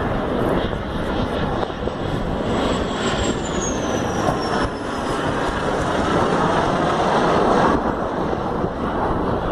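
Snowbirds CT-114 Tutor jets passing low overhead on approach to land, a dense jet-engine rush. About three seconds in, a high engine whine drops in pitch as one goes by, and the noise grows louder before easing near the end.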